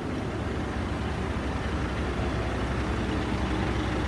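Diesel engine of a Network Rail multi-purpose vehicle (MPV) idling while it stands at the platform, a steady low drone.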